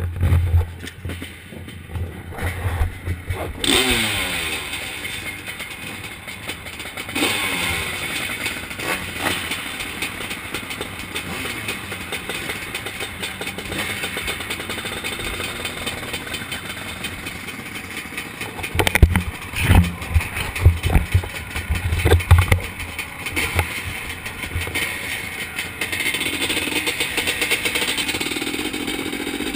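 Zabel 700 two-stroke engine of a motocross sidecar outfit, heard onboard: after a few seconds of quieter running it opens up suddenly and runs hard, its pitch rising and falling with the throttle. Heavy knocks from the outfit come in a cluster past the middle.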